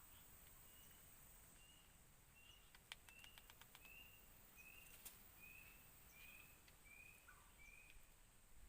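Faint bird call in the forest: a series of about a dozen short, high, evenly spaced notes, roughly two a second. A few light clicks come in the middle.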